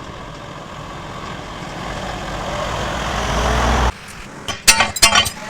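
Heavy truck engine running, growing louder for about four seconds and then cutting off suddenly, followed by a few sharp, loud knocks near the end.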